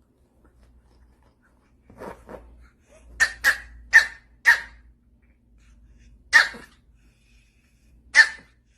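A Pomeranian giving short, sharp yaps: two soft ones, then four in quick succession, then two more spaced a couple of seconds apart.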